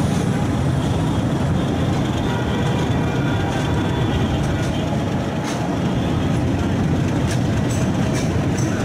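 A train running along the track with a steady, heavy rumble, and a few sharp clicks from the wheels near the end.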